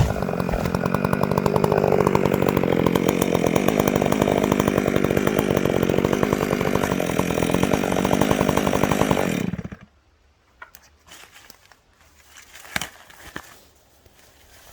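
Stihl MS 661 chainsaw running at full throttle, cutting into a storm-damaged tree stem, then stopping abruptly about nine and a half seconds in. A few faint knocks follow.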